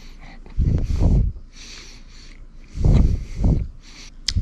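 A man chewing a mouthful of food right at the microphone. Two loud, low puffs of breath through the nose blow on the mic, one about a second in and one about three seconds in, with fainter sniffs and mouth noises between them.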